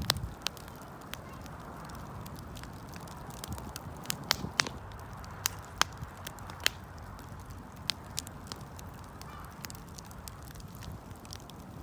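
Wood fire crackling: sharp, irregular pops and snaps over a steady hiss of the burning, with a run of louder pops in the middle.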